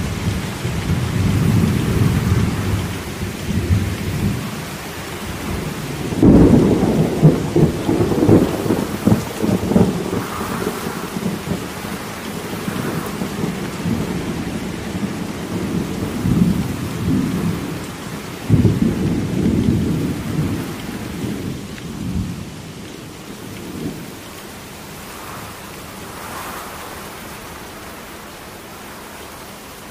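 Steady rain with rolling thunder. Thunder rumbles at the start, breaks in sharply and loudly about six seconds in and again about eighteen seconds in, each rolling on for several seconds, then dies away, leaving the rain hiss alone for the last several seconds.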